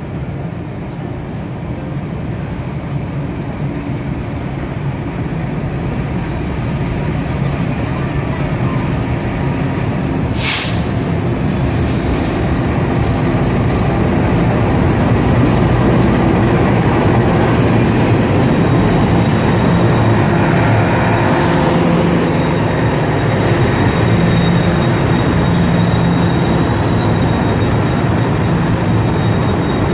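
A passenger train led by a CC 206 diesel-electric locomotive pulls in alongside the platform, its engine running and wheels rolling, growing steadily louder as it approaches. There is a brief sharp hiss about ten seconds in, and a faint high squeal sets in a little past halfway as the coaches roll by.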